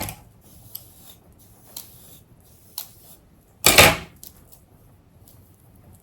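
Handling noises while hair is being braided: a few light clicks and taps, and one louder, brief rustle about four seconds in.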